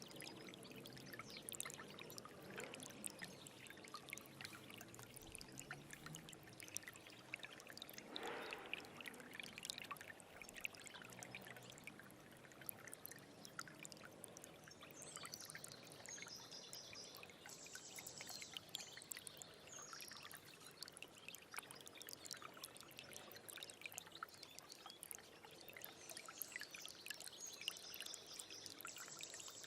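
Small stream trickling and splashing quietly, with many small droplet ticks. Faint high chirps come in about halfway through and again near the end.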